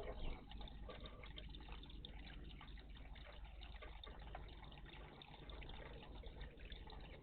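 Water trickling and lightly splashing in a garden bird bath, a steady, low-level patter with a slightly louder splash near the start.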